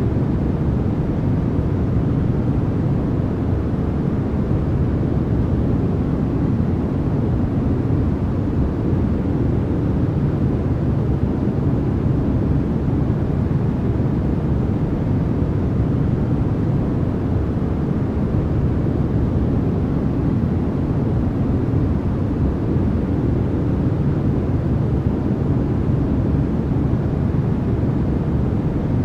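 Steady generated sleep noise, sold as white noise: an even, deep rushing hiss, heavier in the low end than high, that never changes.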